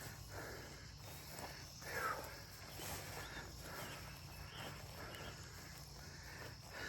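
Footsteps through grass under a steady chorus of crickets and other insects.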